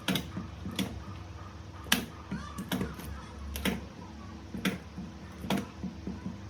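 Battery spot welder firing pulses onto nickel strip on 18650 cells: a run of sharp snapping clicks, irregularly spaced at about one a second, over a steady low hum.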